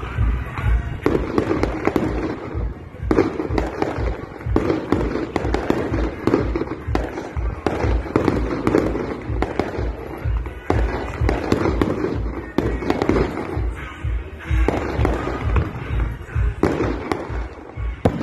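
Fireworks display: a rapid, continuous run of bangs and crackles from bursting aerial shells, with music playing underneath.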